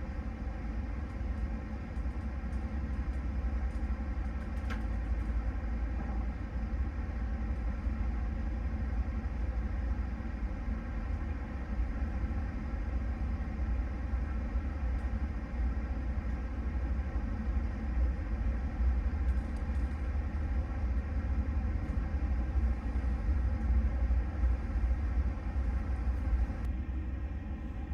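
Steady low rumble and running noise of a moving passenger train, heard inside the carriage.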